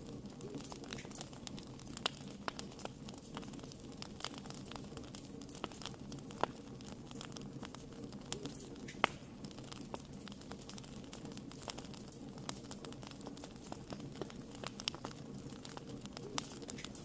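Wood fire crackling in a fireplace: many small irregular pops and snaps over a steady low rumble of burning.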